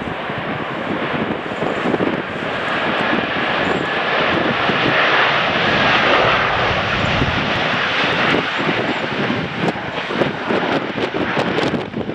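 Jet airliner engines roaring as the aircraft passes, swelling to a peak midway with a faint whine over the roar, then easing off. Wind gusts buffet the microphone near the end.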